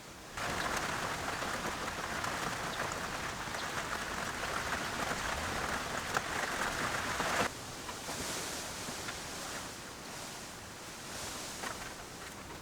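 A steady hiss that starts suddenly and cuts off sharply after about seven seconds, then a fainter hiss with a few brief swells.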